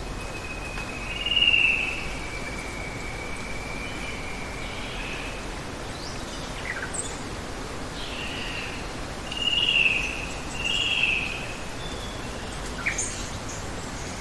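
Forest ambience: a steady rush of running water under a thin, steady high insect drone, with birds calling over it. Three louder calls stand out, one early and two close together in the last third, with a few short downward chirps between them.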